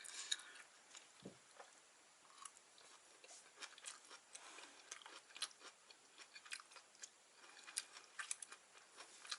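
Faint chewing of chewy grilled gopchang (beef intestines), with scattered small clicks of mouth and teeth.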